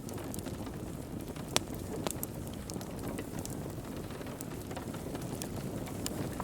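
Wood fire crackling in a fireplace: a steady low rush of burning with scattered sharp pops and snaps, the loudest pop about one and a half seconds in.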